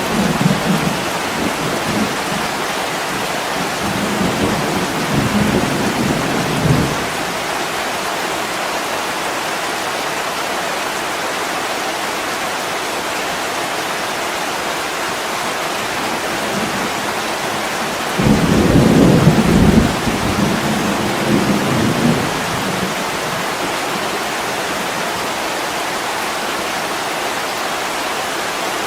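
Heavy rain falling steadily against a window, with low rolls of thunder in the first few seconds and again for a few seconds past the middle.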